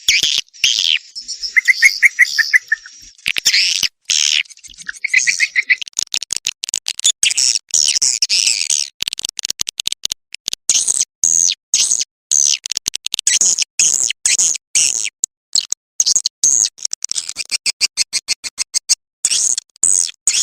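Swiftlet calls played as a nest lure: dense, high twittering chirps and fast buzzy trills, broken again and again by brief silences.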